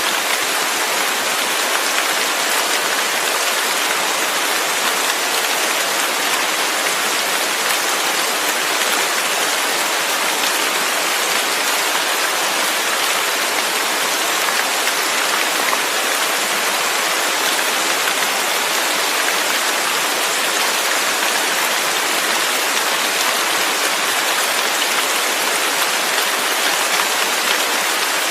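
Steady heavy rain falling, a dense even hiss of drops with no breaks or thunder.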